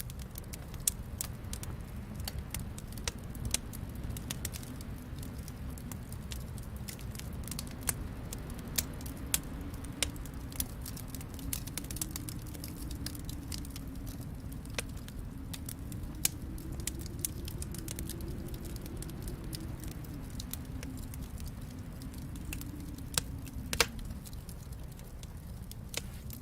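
Wood fire crackling with irregular small pops and a few sharper ones, over a steady low rumble.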